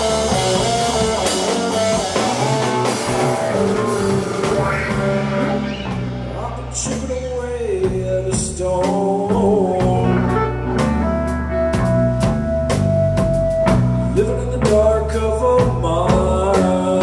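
A rock band playing live: electric guitars, bass and drum kit, with long held guitar notes in the middle of the passage.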